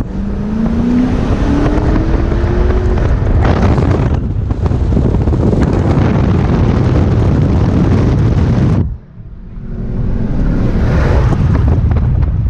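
Dodge Challenger R/T's 5.7 Hemi V8 accelerating hard, its engine note rising through the revs, under a loud rush of wind and road noise. The sound drops off suddenly about nine seconds in, then builds back up.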